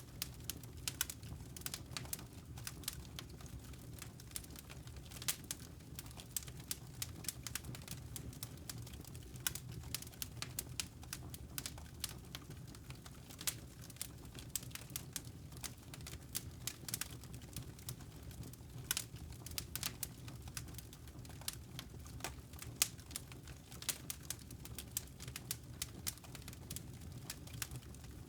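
Wood fire crackling in a fireplace: many irregular sharp snaps and pops over a steady low rumble.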